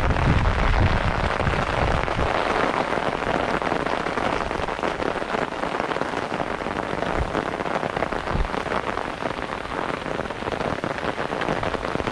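Heavy rain falling as a dense, steady hiss of drops, with a low rumble in the first couple of seconds and two brief low thuds midway.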